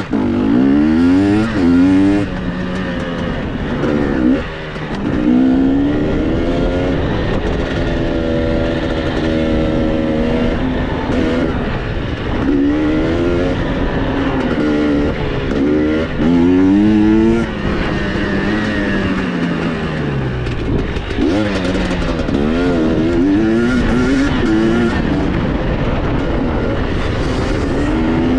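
KTM dirt bike engine running hard through a motocross lap. Its pitch climbs and drops over and over as the throttle is opened and closed and the gears change.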